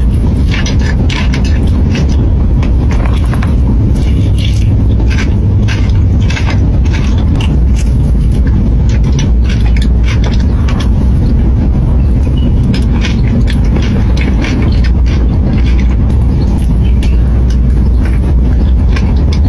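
Irregular short clicks and scrapes of ice cream being eaten, over a loud steady low rumble.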